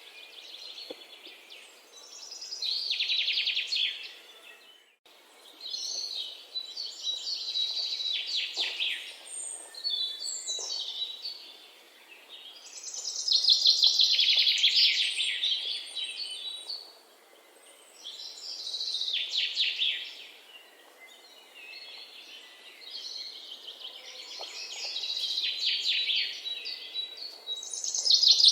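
Songbirds singing: high, rapidly trilled phrases of two to three seconds each, repeated every few seconds, over a faint background hiss.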